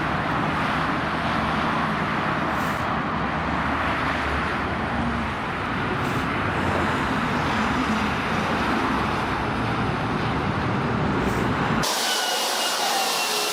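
Steady road and traffic noise from vehicles on a motorway, with a low engine rumble. About twelve seconds in it cuts abruptly to a loud hiss with faint whistling tones.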